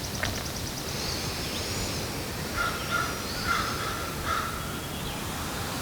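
Birds calling in the morning: a thin high whistle about a second in, then several short, repeated calls around the middle, over a steady background hiss of outdoor ambience.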